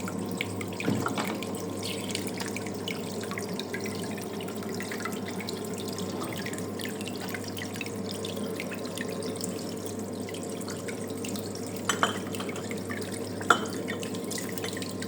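Homemade Fastwasher bottle washer running: its electric pump hums steadily while water sprays and splashes inside, with a few short clicks and knocks about a second in and twice near the end.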